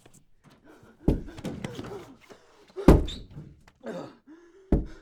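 Three heavy thuds about two seconds apart, like a door being banged or slammed, with lighter knocks between them and a brief voice just before the last.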